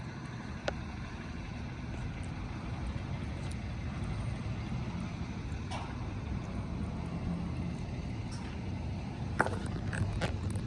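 Ford 6.7 Powerstroke V8 turbodiesel pickup driving, with a steady low engine and road rumble. A few short sharp clicks or knocks are heard, most near the end.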